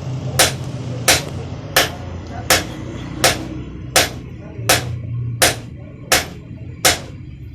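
Blacksmith's hammer striking metal on an anvil in a steady rhythm, about ten ringing blows spaced under a second apart, over a steady low hum.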